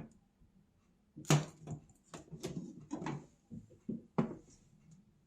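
Handling noise: a string of short knocks and rustles, about eight or nine in a little over three seconds, starting about a second in, as items on a table are moved and handled.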